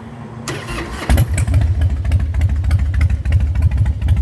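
Cold start of a 2003 Harley-Davidson Night Train's carbureted Twin Cam 88B V-twin on the choke, through Samson street sweeper pipes. The starter cranks briefly about half a second in, then the engine catches and settles into a loud, deep, throaty pulsing idle.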